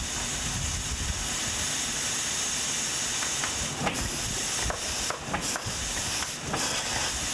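Steam hissing steadily from the boiler and fittings of a 1902 American LaFrance steam fire engine just coming up to about 5 pounds of pressure. A few short knocks sound in the middle, and the hiss briefly drops away twice after about five seconds.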